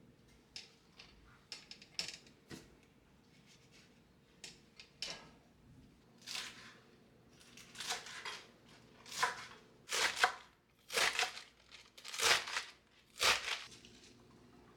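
Light handling clicks, then seven crinkling, rustling strokes about a second apart, getting louder toward the end.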